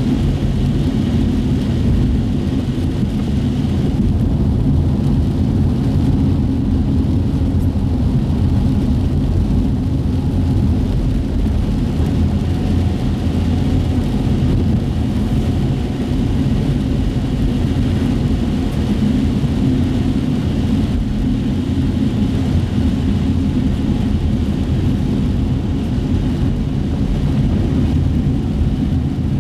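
Steady drone inside a moving car's cabin: low engine hum with tyre noise on wet pavement.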